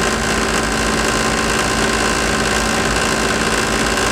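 A car engine running steadily: an even, unchanging hum with a few held tones.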